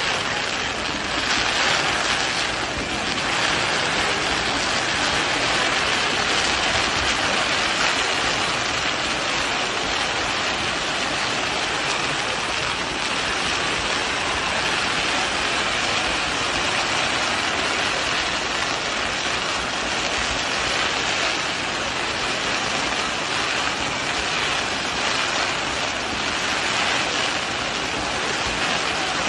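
A firework fountain spraying sparks: a loud, steady rushing hiss that starts suddenly and keeps going without bangs.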